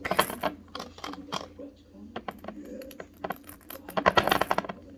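Small crystals clicking and clinking against one another as they are handled and dropped in, with a quick run of clinks about four seconds in.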